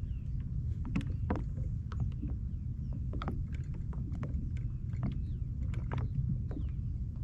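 Fishing kayak on the water: a steady low rumble with scattered irregular clicks and knocks of gear and hull.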